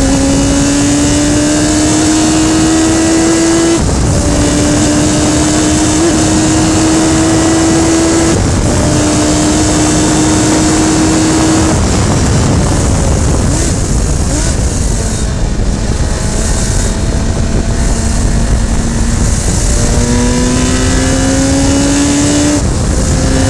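Radical SR3 race car engine under hard acceleration, climbing steadily through the revs with three upshifts in the first twelve seconds. It then runs lower and steadier for several seconds before pulling hard again, with another upshift near the end. Heavy wind and road rush throughout.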